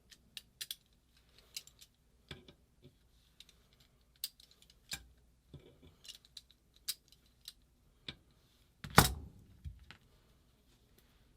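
Small metal tools and parts clicking and clinking as they are handled, with one louder knock about nine seconds in.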